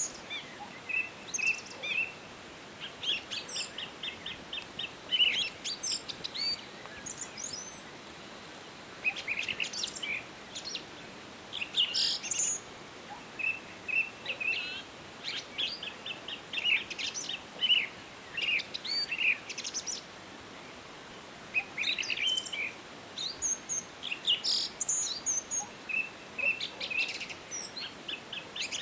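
Several songbirds singing and chirping in a forest dawn-chorus fashion, short high chirps and trills overlapping with brief pauses, over a faint steady background hiss.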